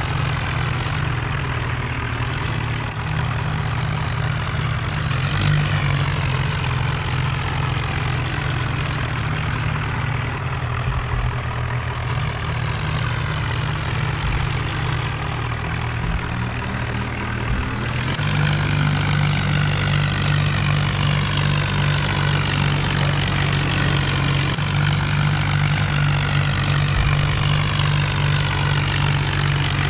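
Tractor diesel engine running steadily, its note changing and getting louder about eighteen seconds in.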